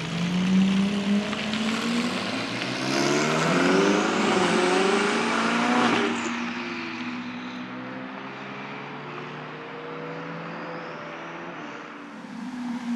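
A car engine accelerating hard, its pitch climbing through the revs and loudest about four to six seconds in, then dropping in pitch and fading as the car drives past and away. Another engine rises near the end.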